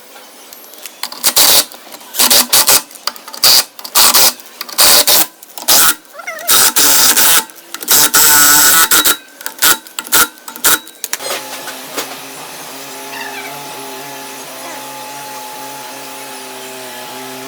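Power tool working on the wheel hub, run in a string of short, loud bursts of uneven length, with one longer run near the middle. After about eleven seconds a quieter, steady droning tone with overtones takes over.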